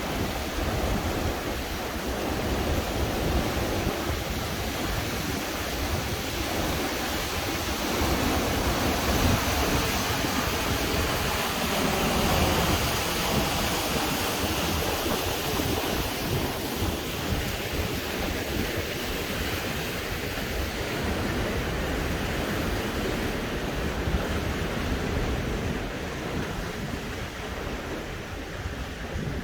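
Storm-force wind blowing over the microphone: a continuous rushing with heavy, uneven low buffeting that swells in gusts around the middle.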